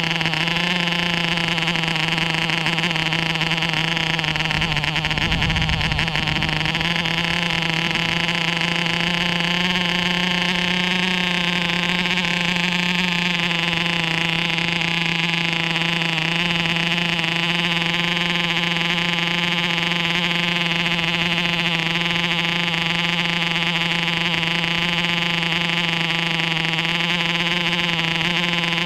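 MARZ (MAP3) 2.5 cc diesel model airplane engine running steadily, a continuous buzz whose pitch wavers slightly, with a brief rush of noise about five seconds in. It is running properly now that its stuck, over-compressed counter-piston has been freed.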